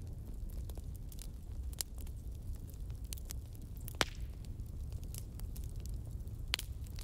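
Wood fire burning with a low steady rumble and irregular sharp crackles and pops, one louder pop about four seconds in.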